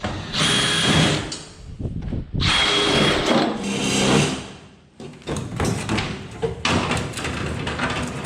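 Power drill drilling out rivets in two runs of about two seconds each, each with a steady high whine, followed by quieter knocking and rattling of the loosened body panel.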